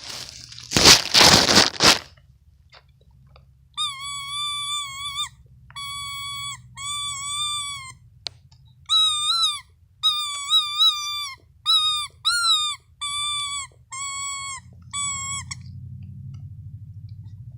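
A loud rustling crunch, then a person giving about a dozen short, high-pitched 'woo' calls, some held and some bending up and down, as a signal between hunters.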